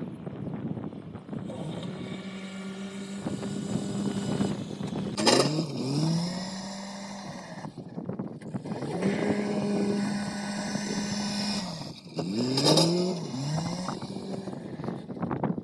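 Engine of the machinery moving the dried corn pile, running steadily. Twice, about five and thirteen seconds in, there is a loud burst and the engine pitch dips and then climbs back.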